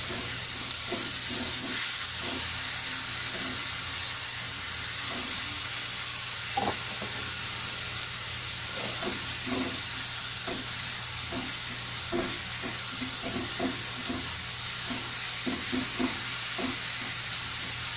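Minced onion and garlic sizzling steadily in hot oil in a nonstick pan, with short scrapes and taps of a silicone spatula stirring them now and then.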